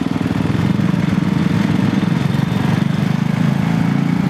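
Riding lawn mower engine speeding up from a slow, pulsing run in the first second, then running steadily at high speed.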